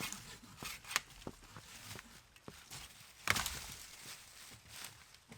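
Scattered sharp knocks and cracks of wood over rustling and crunching. The loudest crack comes about three seconds in.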